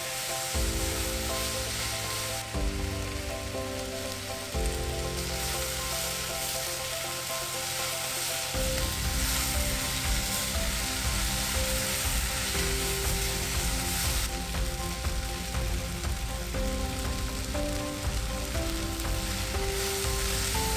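Food sizzling as it fries in a pan, with a steady hiss throughout. Background music plays underneath.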